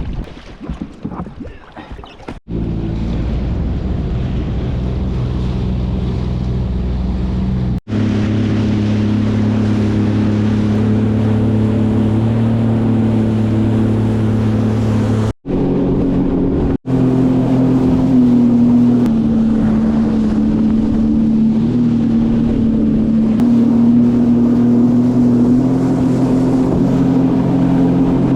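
Sea-Doo jet ski engine running at speed in a steady drone, broken by a few abrupt drop-outs. After about 8 seconds and again after about 17 seconds it comes back at a higher pitch.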